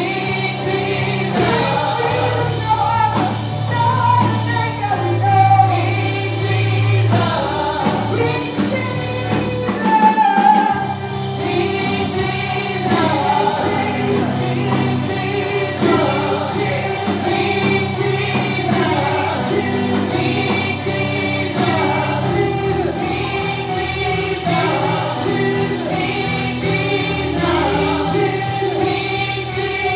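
Gospel worship music: a choir singing over a band with sustained bass notes.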